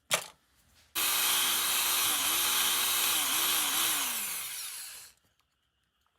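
A small electric drill starts, runs at speed and dips in pitch three times as it bites under load. It then winds down and stops about five seconds in. The sound fits drilling out the rivets of a Tomica die-cast car to take it apart. A sharp click comes just before the drill starts.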